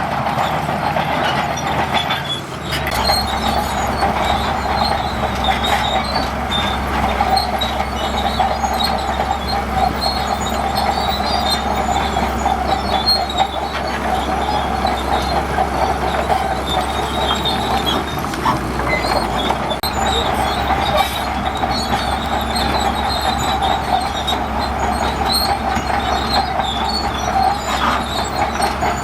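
Crawler bulldozer at work: a steady engine note with a deep rumble that strengthens about two and a half seconds in, over continuous metal track noise.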